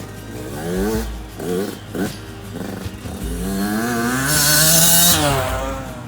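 Dirt bike engine revving in short bursts, its pitch climbing and dropping, then one longer rev starting about three seconds in that climbs and falls away near the end, with a loud hiss at its peak.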